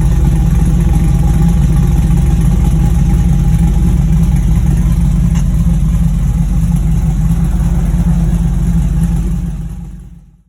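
Engine running steadily at a loud level, with a deep, even pulse; it fades out near the end.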